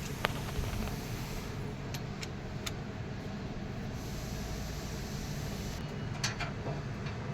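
A steady low engine hum, with a few short, sharp clicks of metal tools or parts being handled over it.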